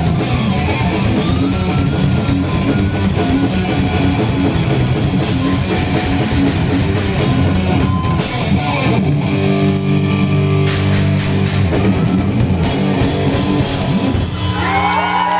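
Live heavy metal band playing loud distorted electric guitars over a drum kit, then ringing out long held chords from about nine seconds in, with wavering high guitar notes near the end.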